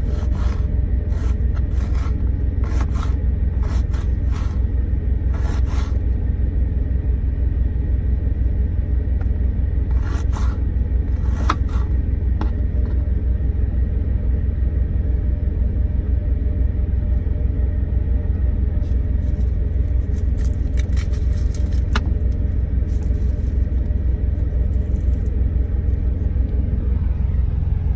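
Steady low rumble of a truck's engine running. Over it come groups of quick scraping strokes of a utensil in a pan: several in the first six seconds, more around ten to twelve seconds in, and another run from about nineteen to twenty-six seconds.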